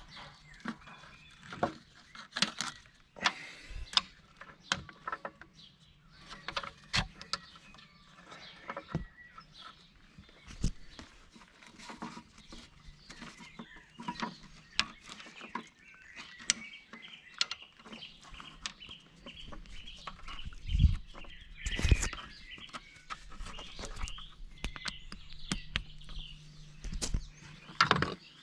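Irregular clicks and knocks of hand work with a grease gun on the bulldozer's steering-clutch grease fittings, with two louder knocks about two-thirds of the way through. Birds call in the background.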